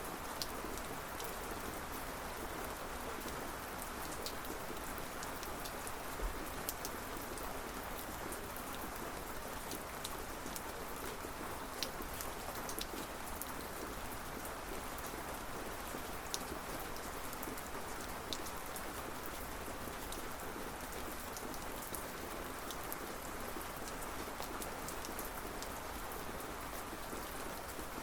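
Steady rain falling on a surface, with many separate drop ticks scattered through the steady hiss.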